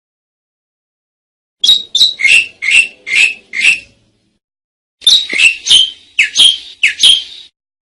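Asian pied starling (jalak suren) calling loudly: after a short silence, two runs of about six harsh notes each, every note sliding down in pitch, with a pause of about a second between the runs.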